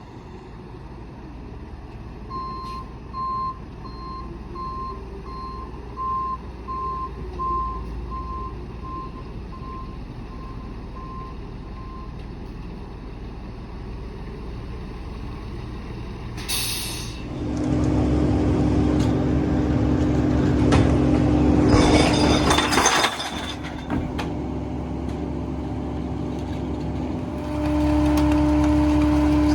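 Mini rear-loader garbage truck: its backup alarm beeps steadily for about ten seconds, then a sharp hiss of air from the brakes. The diesel engine then rises to a loud, steady higher drone as the packer is worked, with another burst of hiss partway through and a further step up near the end.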